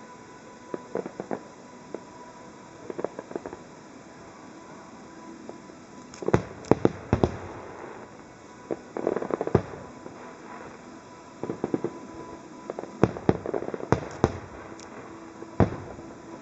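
Aerial fireworks display: shells bursting with sharp bangs in irregular clusters, some with crackling trails. The bangs are sparse early on and come thickest and loudest from about six seconds in.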